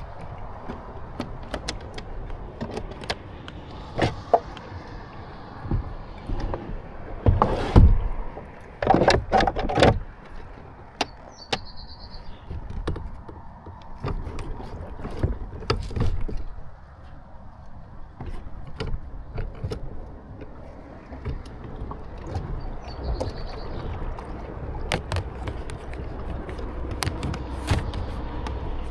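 Kayak being paddled: irregular knocks and clicks of the paddle and gear against the hull, with a cluster of louder knocks and splashes about 7 to 10 seconds in, over a steady low rumble.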